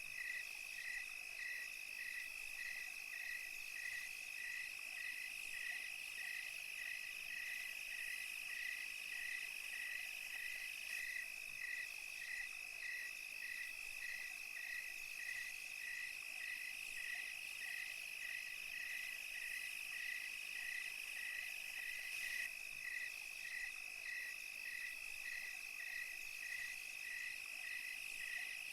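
Night chorus of crickets and other insects: a steady high trill, with a chirp repeating evenly about twice a second, over a hiss of higher-pitched insect sound.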